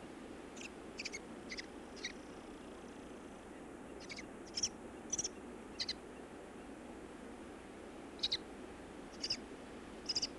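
American kestrel chicks calling: about a dozen short, high-pitched calls, singly and in quick pairs, over a faint steady hiss.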